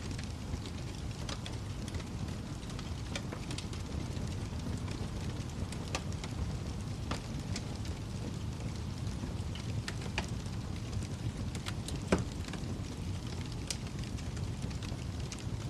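Wood fire burning in a fireplace: a steady low rumble of flames with scattered sharp crackles and pops, one louder pop about twelve seconds in.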